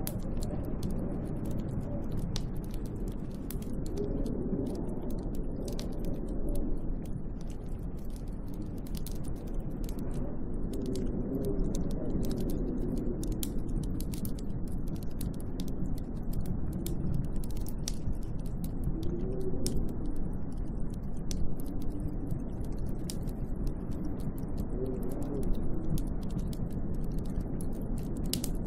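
Snowstorm wind blowing in slow rising and falling gusts, a deep rushing noise, with a constant scatter of small sharp ticks and clicks over it.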